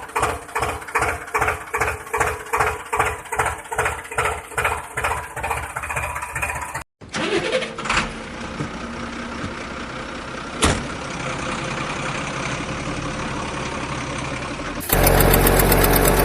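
Engine sound in spliced segments. First a rhythmic chugging at about three beats a second, which cuts off about seven seconds in. After a short break comes a steady engine run with two sharp knocks. Near the end a louder, different engine sound cuts in.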